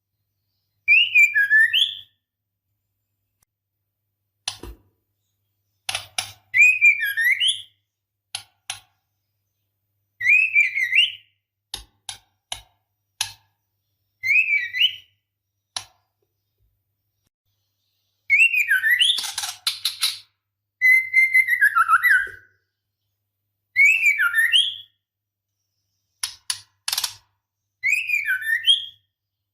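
Female white-rumped shama calling: short, loud whistled phrases that sweep up and down, repeated every few seconds, with sharp single clicks between them.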